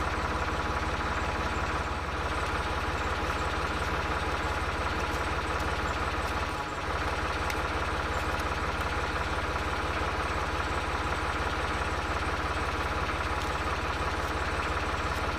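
An engine idling steadily, unchanged throughout except for a brief dip about six and a half seconds in.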